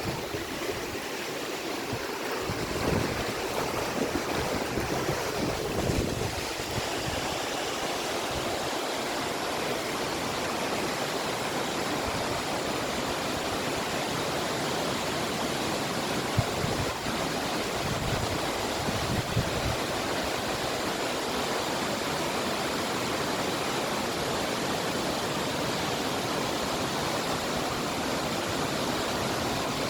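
Waterfall rushing, a steady roar of falling water, with low gusts of wind on the microphone now and then.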